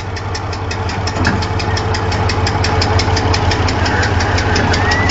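Heavy vehicle engine running steadily, with a low hum and an even, rapid knocking several times a second.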